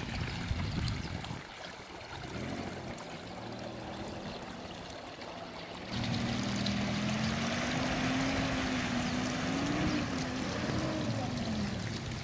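Mitsubishi Pajero's engine running, its pitch slowly rising and wavering as it is revved, over the rush of a shallow stream. The engine becomes clearly louder about six seconds in.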